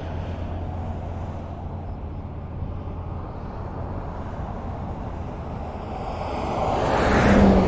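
Highway traffic: a steady low rumble of tyres and engines, then a vehicle approaches and passes close near the end, its tyre noise swelling to a peak.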